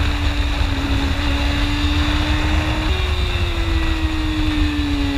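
Motorcycle engine running while riding, with wind rumbling heavily on the microphone. Its pitch steps up about three seconds in, then falls steadily as the bike slows.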